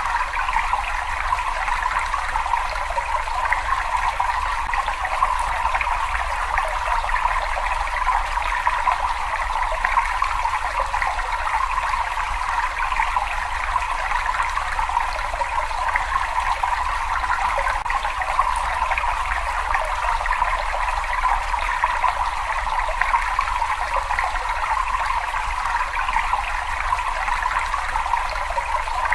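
Water running steadily in a cave, a continuous trickling rush with no breaks, over a low rumble.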